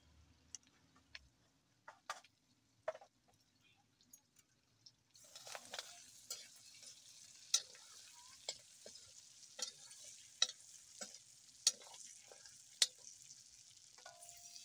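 Pork frying in a wok, stirred with a metal spatula. A few scattered clicks for the first five seconds, then a steady sizzle starts, with sharp scrapes and knocks of the spatula against the pan about once a second.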